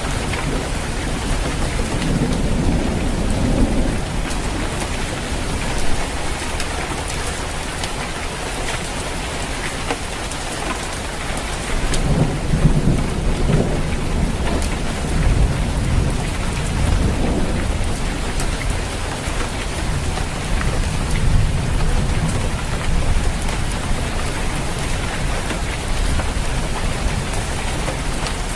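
Steady rain falling on a roof, a dense even patter, with low rolls of thunder rumbling a couple of seconds in and again through the middle of the stretch.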